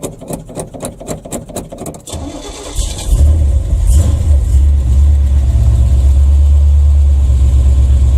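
Big-block Chevy 454 V8 in a 1982 Chevy C30 truck cranking on the starter for about two seconds at roughly six strokes a second, then catching just under three seconds in. It runs up briefly and settles into a loud, steady cold idle with no choke.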